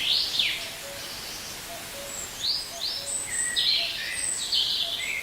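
Birds calling in a string of short high calls, busiest from about two and a half seconds in, over a faint, evenly repeating low note.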